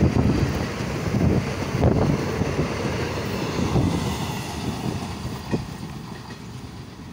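Passenger train coaches rolling past on the track, the wheels rumbling with a few sharp knocks. The sound gradually fades as the last coach goes by and the train draws away.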